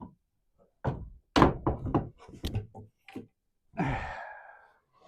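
A run of wooden knocks and thunks as wood is handled in and around a wood stove, then a scraping noise lasting about a second near the end.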